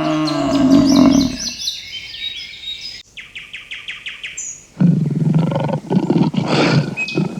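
A farm animal's loud low call fading out in the first second and a half, then birds chirping with a quick run of short notes, then a rough, rapidly pulsing animal call from about five seconds in.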